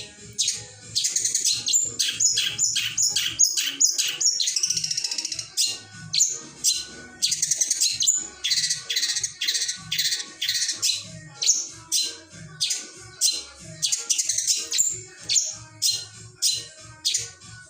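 Long-tailed shrike singing a fast medley of short harsh chattering notes and mimicked calls of other birds, in quick runs of repeated notes.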